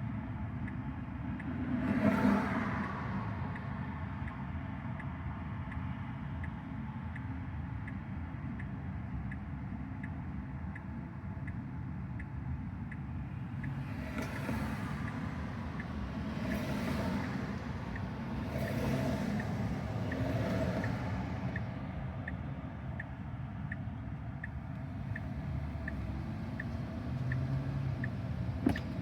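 Road and tyre noise inside the cabin of a Tesla Model Y electric car on the move, swelling as other vehicles pass about 2 seconds in and several times in the second half. A faint, even ticking runs under it, and a sharp click sounds near the end.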